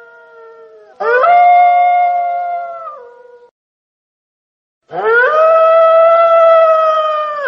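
Wolf howling: long howls that rise quickly, hold one steady pitch and fall away at the end, two of them with a second or so of silence between.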